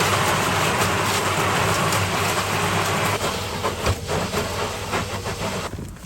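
Tumble dryer running as a cement mixer: a steady motor hum under the gritty rattling and scraping of a wet sand-and-cement mix tumbling in the metal drum. The noise dies down near the end.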